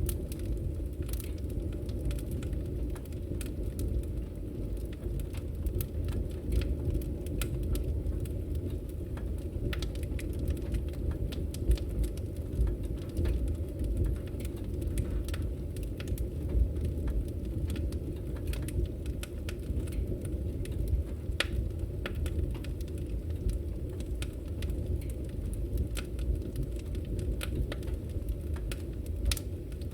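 Wood fire burning, with a steady low rush of flame and frequent small crackles and pops from the burning wood.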